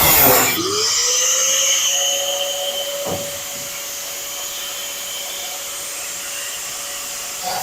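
High-speed cut-off tool finishing a cut in sheet metal, then lifted free so its pitch rises and it runs on with a steady whine. A single knock about three seconds in.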